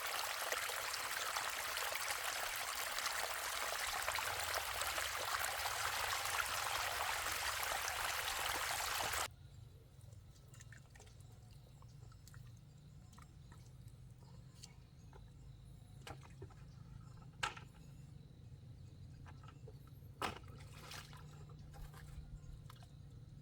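Water pouring in a steady rush, which cuts off abruptly about nine seconds in. After that there is quiet outdoor ambience with a low steady hum and two sharp knocks.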